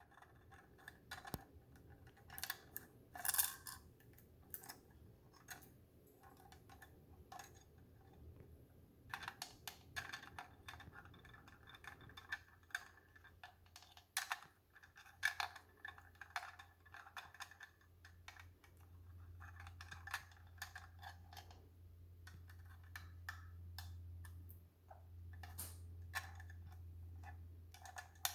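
Cuban Amazon parrot working a puzzle toy: irregular clicks and taps of beak and toy pieces, some sharper than others. A steady low hum underneath gets louder over the last third.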